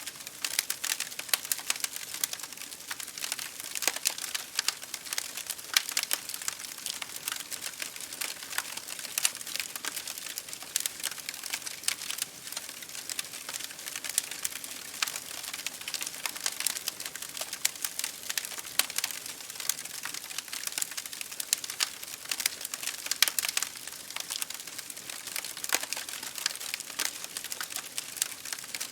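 Wood fire in a fireplace crackling, with a dense stream of small sharp pops, over a soft even patter of rain on window glass.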